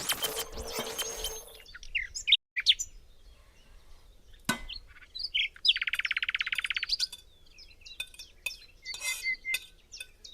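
Birds chirping, with short high calls scattered throughout and a fast, even trill of about a second near the middle. A brief noise is heard at the very start.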